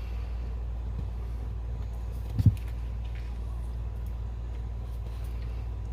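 Steady low background hum, with a single short low thump about two and a half seconds in.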